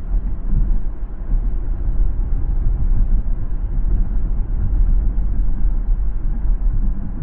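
Steady low road rumble of a car driving, mostly tyre and drivetrain noise heard from the car itself, with no distinct events.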